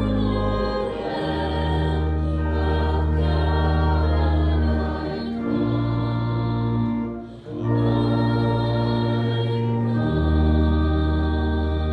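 Church music with singing: sustained chords over a deep bass line, changing every couple of seconds, with a brief break about seven seconds in.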